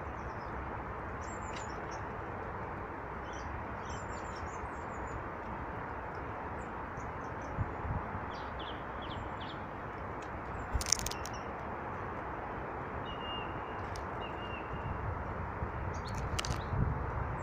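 Small birds chirping and calling in short, high notes over a steady rushing background, with a sharp click about eleven seconds in.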